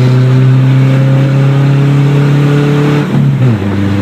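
1994 Ford Ranger's 2.3-litre four-cylinder engine running loud with no muffler at all. Its revs climb slowly, then fall off sharply about three seconds in and settle at a lower steady pitch.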